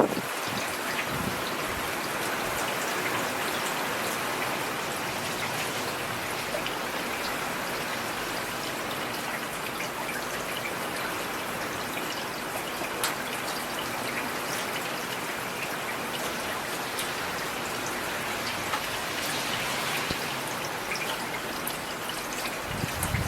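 Steady rain falling, with the odd sharper drop standing out, and a brief low rumble near the end.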